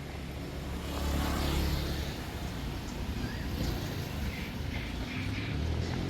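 Street traffic: a motor vehicle's engine running as it passes close, growing louder about a second in, over a steady low rumble.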